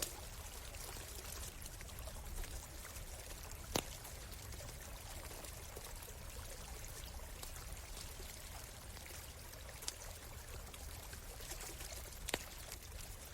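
A stream flowing steadily, with a campfire crackling beside it and giving a few sharp pops, about three over the stretch.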